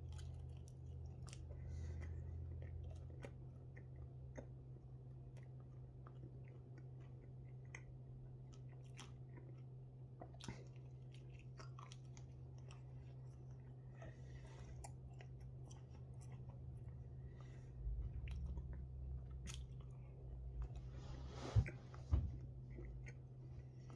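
A person chewing a mouthful of thin-crust chicken pizza, with faint small mouth clicks over a steady low hum. Two louder knocks come near the end.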